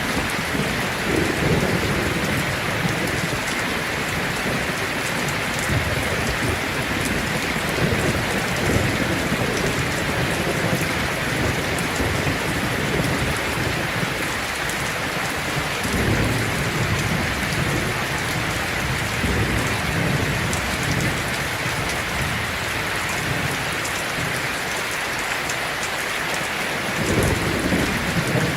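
Heavy rain falling on a tin roof in a steady hiss, with low thunder rumbles rolling in and out: a few seconds after the start, again in the middle, and once more near the end.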